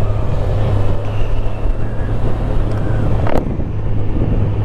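Motorcycle engine running steadily at low revs, with wind noise on the microphone. A brief click sounds a little over three seconds in.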